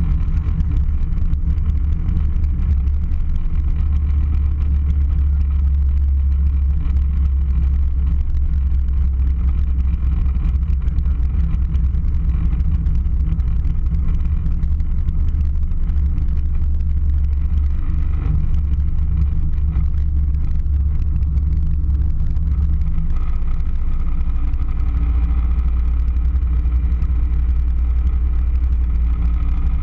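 Airliner cabin noise: a loud, steady low rumble from the engines and the airflow, with a small shift in its low pitch about 23 seconds in.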